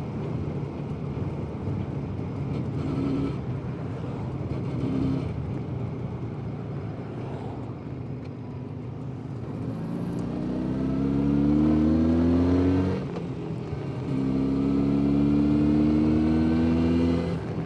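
Jawa 350 638's two-stroke twin engine heard from the saddle while riding, ticking over at low revs for the first half. About ten seconds in it pulls up through the revs, shuts off briefly at a gear change, then pulls steadily again before easing off near the end.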